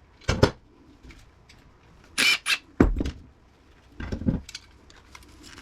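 Parts and tools being handled on a workbench: several short knocks and clatters, one of them a sharper rattle and one a heavier thunk, with light handling noise in between.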